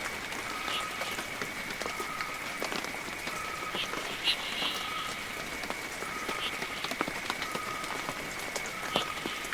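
Heavy rain falling steadily, with many individual drops clicking. Underneath run a steady thin high tone and a short pitched call that repeats about every second and a half.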